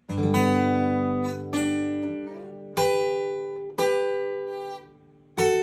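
Acoustic guitar played slowly: a ringing chord, then four further picked notes or note pairs, one at a time, with a slide up the neck about two seconds in.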